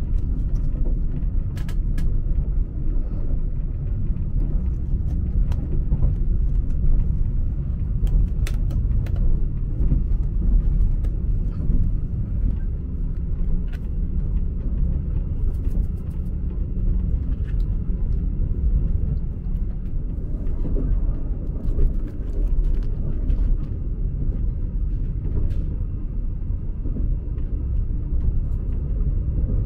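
Steady low rumble of a sleeper train running, heard from inside the passenger cabin, with a few light clicks of a plastic cup lid and food tray being handled.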